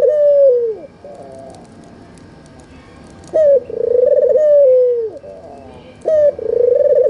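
White, red-eyed (albino) ringneck dove cooing. One coo ends early on, and two more follow at intervals of about three seconds. Each is a short sharp note, then a long rolling coo that falls in pitch at its end.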